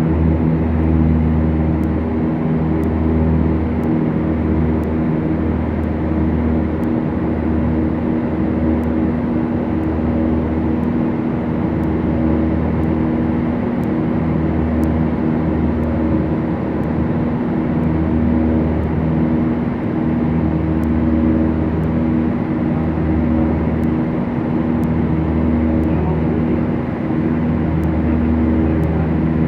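Twin piston engines and propellers of a Beechcraft Duchess running steadily in flight, a constant drone with a slow, uneven throb in its low end.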